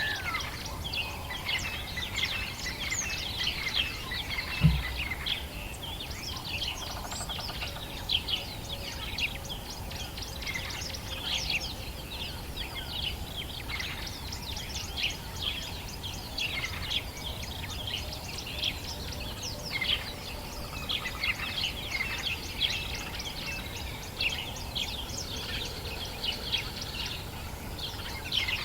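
Dawn chorus of many birds in African bush: a dense, continuous mix of short high chirps and calls, over a low steady rumble, with a brief low thump about five seconds in.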